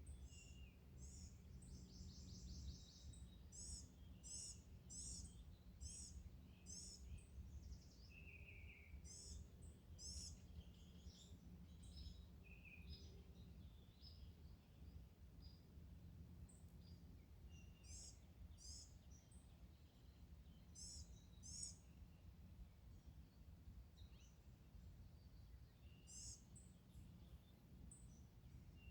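Faint birdsong: short, high chirps repeated in small groups every few seconds, over a low steady rumble.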